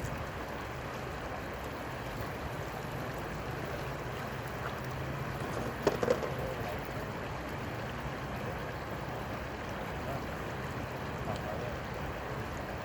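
Steady noise of flowing river water with a low hum underneath, and one sharp knock or splash about halfway through.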